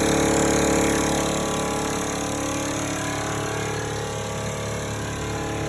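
Engine running steadily at idle, its leaking exhaust plates freshly sealed with sealant; the level eases slightly after about a second.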